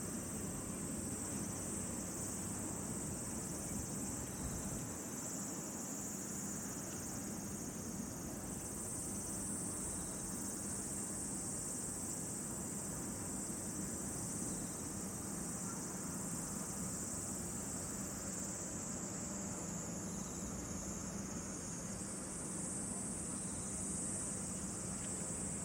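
Steady, high-pitched chorus of insects, swelling and fading slightly, over a soft low background noise.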